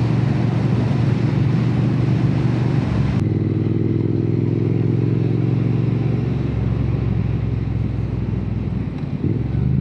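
Triumph Bonneville T120's 1200 cc parallel-twin engine running on the road through aftermarket Hitchcock slip-on silencers, heard from inside the rider's helmet under a steady rush of wind. About three seconds in the wind hiss cuts off abruptly and the engine's note comes through clearly.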